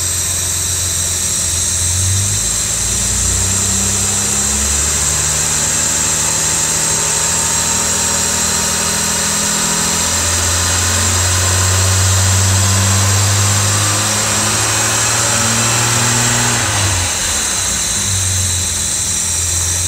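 1970 Jaguar E-Type Series 2's 4.2-litre XK straight-six running on a new set of triple SU carburettors, its engine speed shifting up and down while the mixture and RPM are being set. It holds a higher speed for several seconds from about halfway, then drops back near the end.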